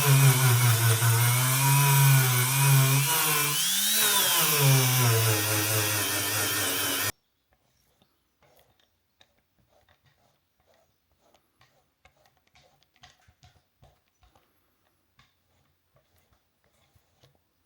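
Electric power tool motor running at high speed, its pitch sagging and recovering about four seconds in. The sound cuts off abruptly about seven seconds in, leaving near silence with faint scattered clicks.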